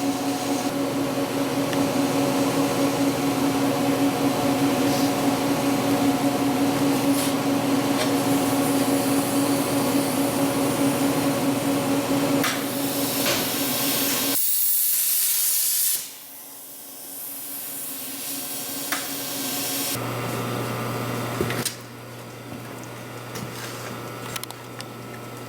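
Hypertherm plasma cutter cutting through a weld: a loud steady hiss with a buzzing tone from the arc. About 14 seconds in the arc stops and a short blast of air hiss follows, then a quieter hiss, with a low steady hum starting near the end.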